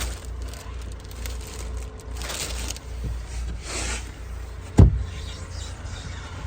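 A parked car being handled: a low steady rumble with a few whooshing swells, and one heavy thump about five seconds in.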